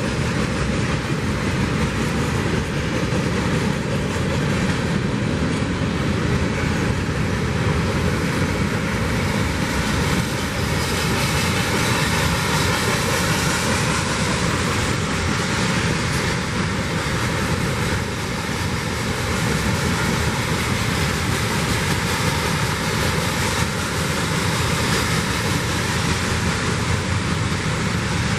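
CPKC freight train cars rolling past on the rails: a steady, loud noise of wheels on track that keeps up without a break.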